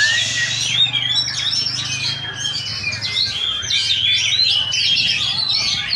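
Several oriental magpie-robins singing at once in contest, a dense, unbroken tangle of fast chirps, trills and whistled glides from many birds overlapping.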